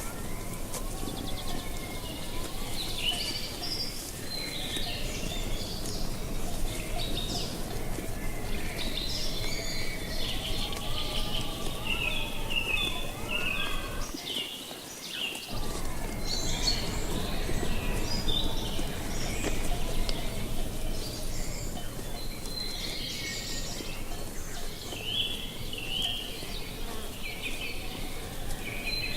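Several small birds chirping and calling in quick repeated phrases over a steady low wind noise, with a faint droning buzz that wavers in pitch underneath. The low wind noise drops out briefly about halfway.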